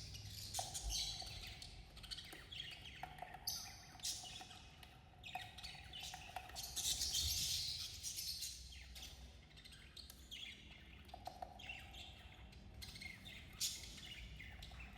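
Budgerigars chirping and chattering in quick, overlapping calls.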